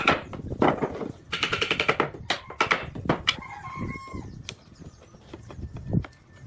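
Rapid runs of sharp taps and knocks, several a second, with a brief pitched chirp about four seconds in; the knocking thins out near the end.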